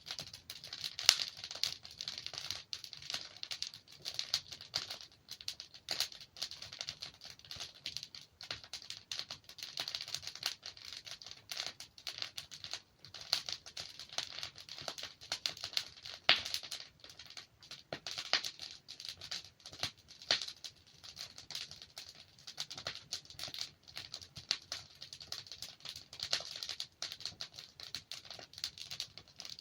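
Wood fire crackling steadily, logs burning with a dense run of small irregular pops and snaps and a few louder pops.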